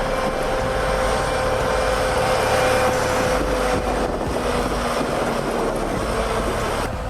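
Heavy log-loaded logging truck's engine working hard as the truck forces through deep swamp mud: a rough, dense running noise with a steady whine over it that changes near the end.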